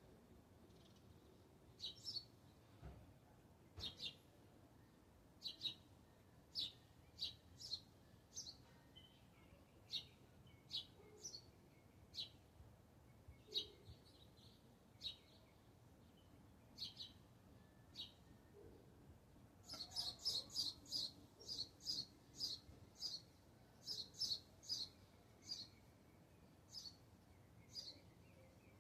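Small birds chirping: short, high, separate chirps every second or so, with a quick run of rapid chirps about twenty seconds in.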